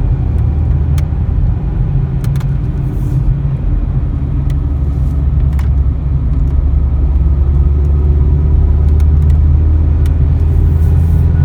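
Steady low rumble of a car driving, heard from inside the cabin: engine and road noise droning, growing a little louder about halfway through, with a few faint ticks.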